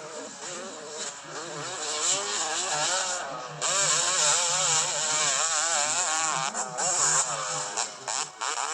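Dirt bike engines revving, the pitch rising and falling rapidly with several engines overlapping; it gets louder about three and a half seconds in.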